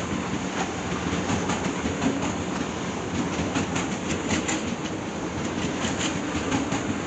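ICE electric train rolling past, a steady rumble of wheels on rail with frequent clicks as the wheels run over the track.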